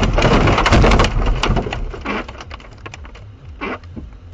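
A car collision: a loud crunching impact noise that dies away over about two seconds into scattered clicks and rattles.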